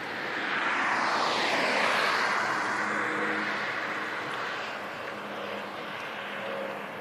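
A vehicle passing by: a rushing noise that swells over about two seconds and then fades away.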